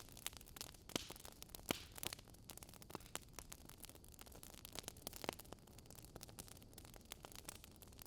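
Wood fire crackling: irregular small pops and snaps from burning logs over a soft steady hiss, with a couple of louder snaps about a second and a half in.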